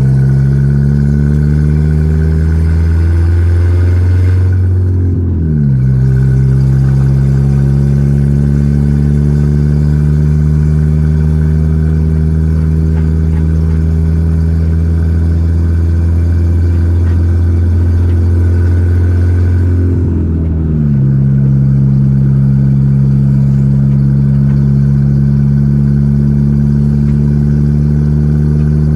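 Volkswagen Gol G4 Rallye's engine pulling on the road: revs climb slowly, then fall sharply at an upshift about five seconds in. It then runs at steady revs before dropping again at another gear change around twenty seconds in.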